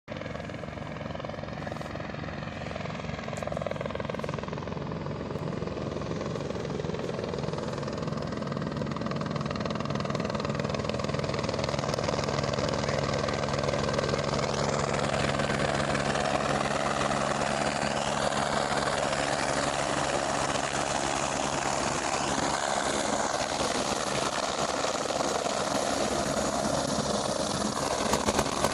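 Helicopter running with the steady chop of its rotor and the hum of its engine, growing louder over the first ten seconds or so and then holding steady.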